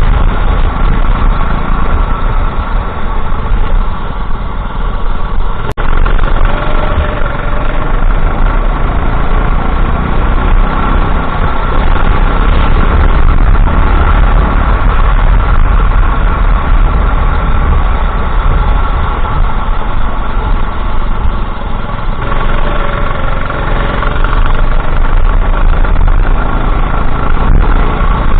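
Racing kart engine running hard through a lap, heard loud and close onboard, its note easing and picking up again with the corners. A sharp click about six seconds in.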